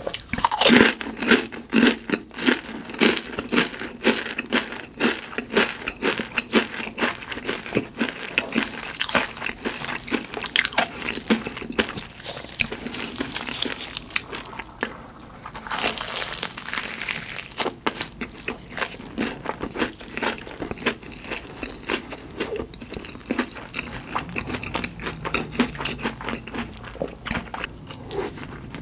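Close-miked crunching and chewing of crisp fried food: many sharp, irregular crunchy bites and chews, thickest around fifteen to seventeen seconds in.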